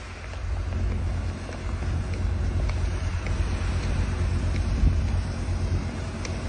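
Blizzard wind buffeting the microphone: a heavy low rumble that swells about half a second in and rises and falls in gusts, over a faint hiss.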